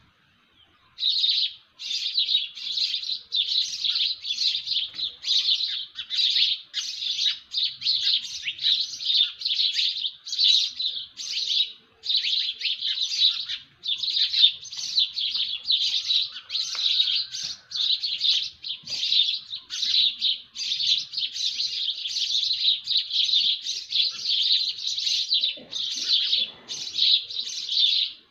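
Birds chirping in a dense, continuous chorus of high-pitched notes, repeating about twice a second, starting about a second in after a brief pause.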